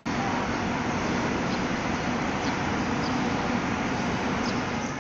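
Steady rushing noise of an airliner's engines and airflow heard from inside the passenger cabin, with a constant low hum underneath.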